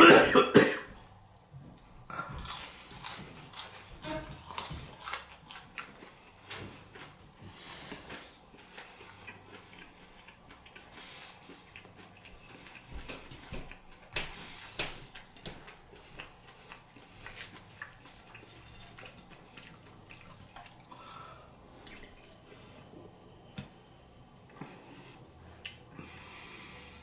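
Close-miked eating: chewing, wet mouth smacks and the clink of a utensil on dishes, in scattered short clicks. A short, loud burst opens the stretch.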